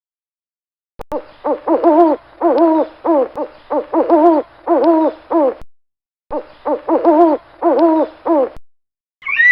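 An animal call repeated in quick short notes, about three a second, each note bending in pitch. It starts about a second in and has a brief break near the middle.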